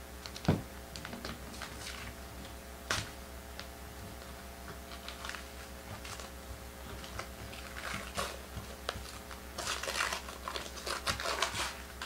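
Packaging of a box of sports trading cards being opened and handled: scattered clicks and crinkling, with a sharp knock about half a second in and busier rustling near the end.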